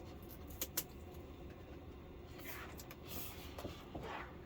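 Faint handling noises from work inside an opened LCD television: a couple of small sharp clicks about half a second in, then soft rustling scrapes of plastic parts and tape.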